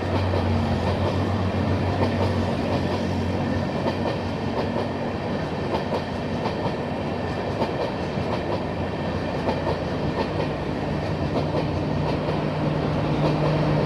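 Passenger train of LHB coaches running on the track, its wheels clicking over rail joints under a continuous rumble. A steady low hum runs underneath and moves to a slightly higher pitch about ten seconds in.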